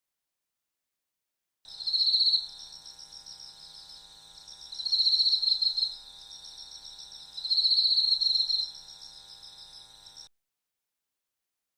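Cricket-like insect chirping: a fast, continuous pulsing trill with three louder bursts about three seconds apart. It starts after a couple of seconds of silence and cuts off abruptly near the end.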